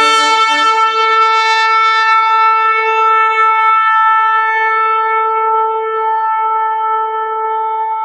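A shofar blowing one long, steady blast on a single note.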